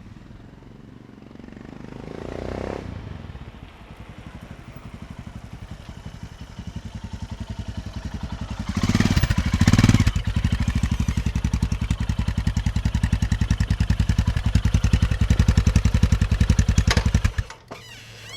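Royal Enfield Himalayan's 411 cc single-cylinder engine running through a PoweRage free-flowing slip-on exhaust, its exhaust pulses in an even, rapid beat. The beat grows louder, rises sharply briefly about nine seconds in, then runs on steadily before stopping abruptly near the end.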